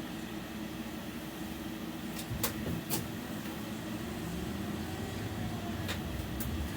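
Interior of a BKM 60102 tram running along the track: a steady low hum with a few sharp clicks, growing slightly louder in the second half.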